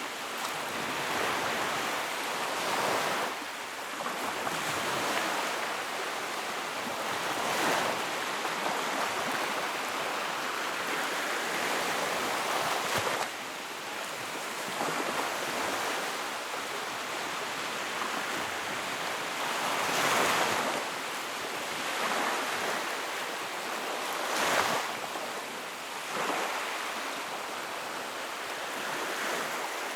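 Wood fire burning in a fireplace: a continuous crackling hiss that swells and eases every few seconds, with a few louder bursts of crackling.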